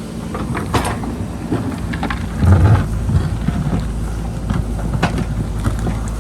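JCB backhoe loader's diesel engine running steadily under load, with scattered knocks and clatter from the bucket working earth and rock. A louder surge of engine and rumble comes about two and a half seconds in.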